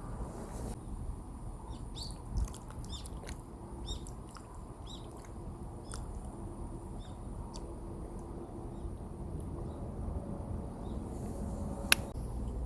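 Small birds chirping in short, scattered calls over a low steady background rumble, with a single sharp click near the end.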